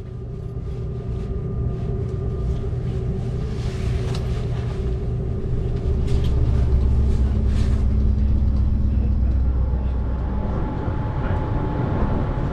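Cabin noise inside a moving Seibu Laview limited express train: a steady low rumble with a faint motor hum that grows louder over the first several seconds, with a few light clicks and knocks along the way.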